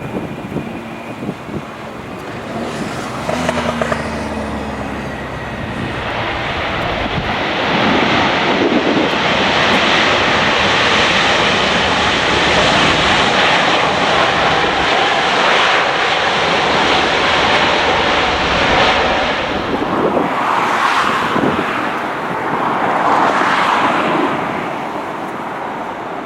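Heavy jet airliner's engines passing close by: a broad engine noise builds over several seconds, holds loud for about ten seconds, then fades. Near the end, wind gusts buffet the microphone.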